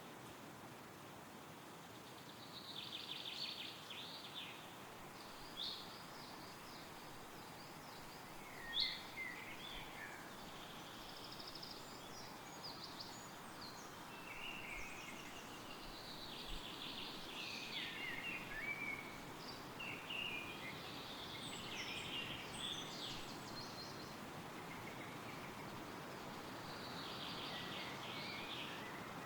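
Steady wind rustling through woodland trees, with several songbirds singing short, varied phrases over it, one sharp call about nine seconds in the loudest.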